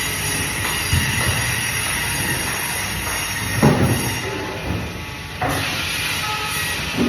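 Band saw running steadily while cutting fish, with a few short knocks as the pieces are handled against the saw.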